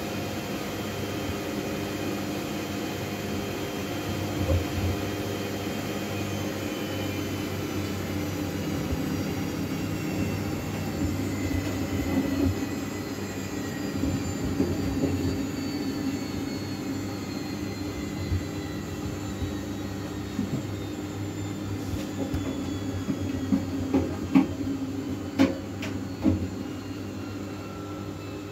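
Miele W433S front-loading washing machine running with a steady hum, its motor whine slowly falling in pitch as the drum slows. A few sharp knocks come near the end.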